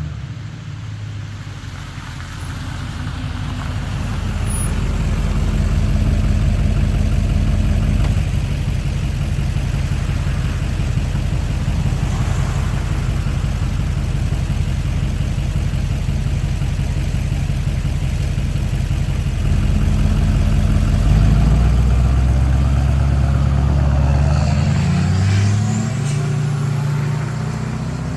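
2006 LBZ Duramax 6.6-litre turbo-diesel V8 running through a 5-inch MBRP straight exhaust and 3-inch downpipe, driven hard. The engine note builds over the first few seconds and holds, drops in pitch about twenty seconds in, then climbs again near the end under a rising whine.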